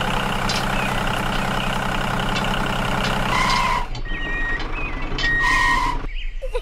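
Tractor engine running steadily, stopping about four seconds in. Two short beeps follow about two seconds apart, each with a hiss, as the tractor backs up.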